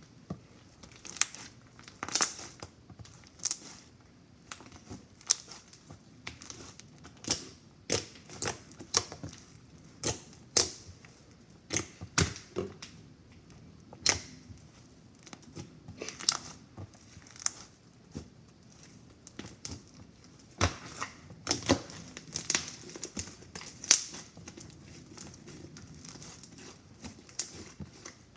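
Slime being squished and stretched by hand, giving irregular sharp pops and crackles from trapped air bubbles, one to a few a second.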